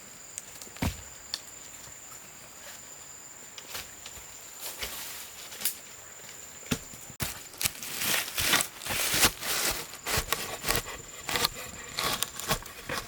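Irregular knocks and scuffs from outdoor handwork, sparse at first and much busier about halfway in. Under them runs a steady thin high whine like an insect.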